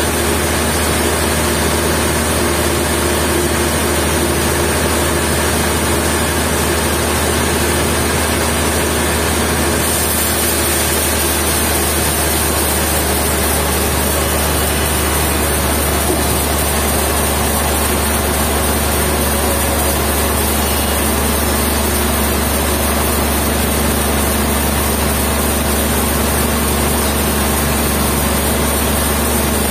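Sawmill machinery running steadily with a constant low engine hum.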